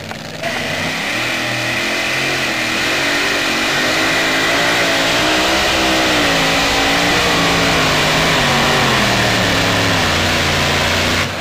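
Super modified two-wheel-drive pulling truck's engine at full throttle during a pull, its pitch wavering up and down as it works against the sled. It comes in suddenly about half a second in and cuts off abruptly near the end.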